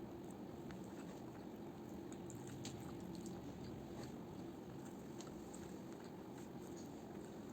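A person chewing food, with soft mouth clicks scattered over a steady low hum.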